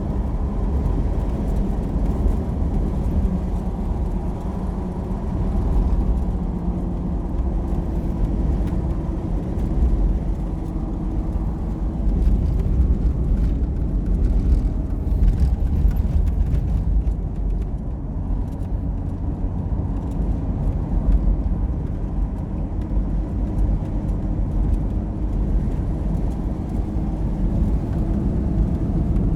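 A moving vehicle: steady low rumble of engine and road noise, with no breaks or sudden sounds.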